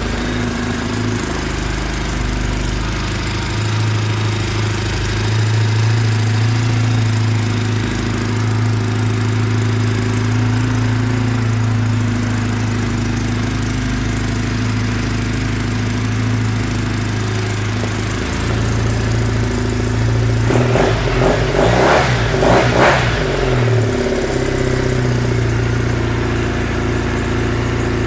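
2008 Triumph Bonneville T100's parallel-twin engine idling steadily, then revved in a few quick blips about three-quarters of the way through before settling back to idle.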